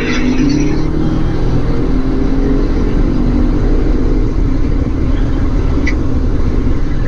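V8 car engine running at speed with heavy road and wind rumble, its pitch easing down slightly in the first second as the car comes off a run. A brief high chirp sounds near the end.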